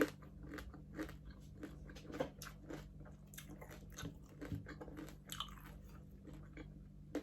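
Close-up eating sounds: chewing and crunching of crispy deep-fried pork skin, a run of short crackles and crunches throughout.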